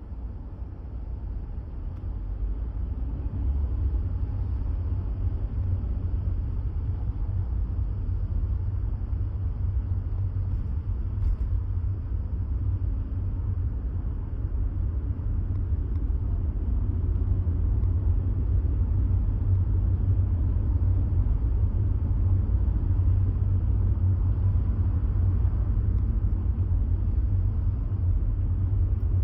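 Steady low rumble of a vehicle on the move, building over the first few seconds and then holding even.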